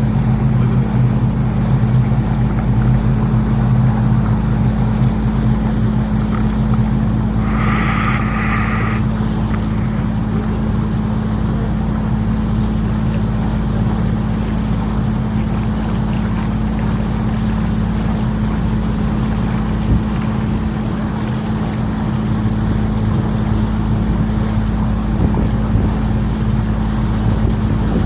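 Canal tour boat's motor running at a steady cruising hum, with wind and water noise. About eight seconds in a brief high-pitched tone sounds for about a second.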